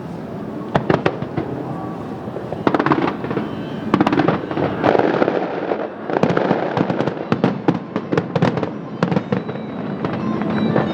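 Fireworks display: shells bursting in a rapid series of sharp bangs, with clusters of crackling reports, starting about a second in. Music plays underneath.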